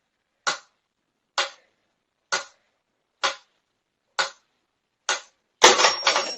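Sharp, even ticks about once a second, six in a row, like a clock ticking. About five and a half seconds in they give way to a louder burst of clattering noise with a faint high whine through it.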